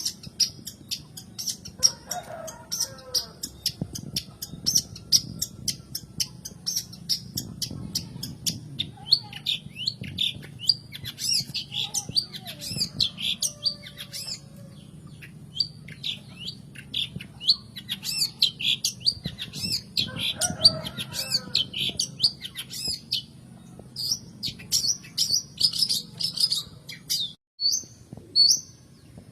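Long-tailed shrike calling: fast runs of short, harsh, scratchy high notes with a few lower calls among them, over a faint steady low hum.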